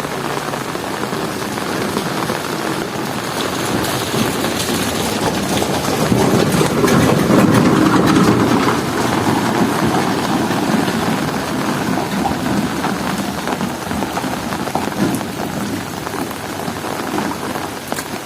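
Heavy rain falling steadily, with a low rumble of thunder that swells about six seconds in and fades away after about ten seconds.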